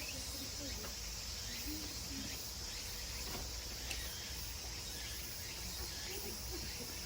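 Steady high-pitched drone of summer insects, with faint murmuring voices of people nearby.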